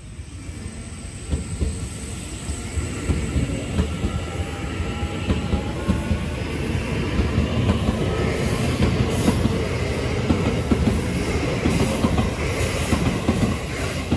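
Taiwan Railway EMU800 electric multiple unit running past at close range, its rumble building over the first couple of seconds and then staying loud, with wheels clattering over the rail joints.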